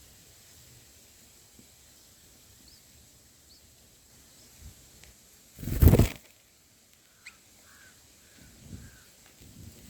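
Bulbul's wings flapping in one loud burst about six seconds in, at the nest, followed by four faint short chirps.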